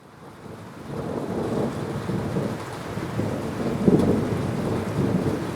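Thunder rumbling over steady heavy rain. It fades in over the first second and rumbles loudest about four seconds in.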